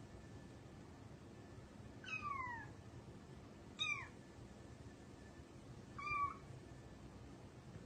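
A cat meowing three times, a few seconds apart; the first call is the longest and falls in pitch, the other two are short.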